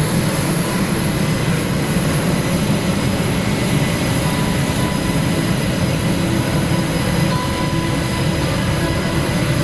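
Steady, loud rumble of an F/A-18's twin jet engines, with no rise or fall in pitch.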